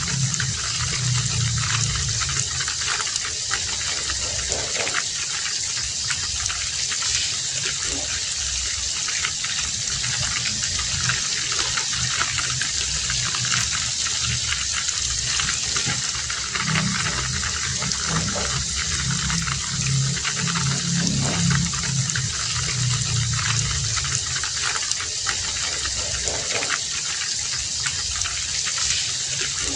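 Heavy rain falling steadily, an even hiss, with a deeper rumble that swells near the start and again about halfway through.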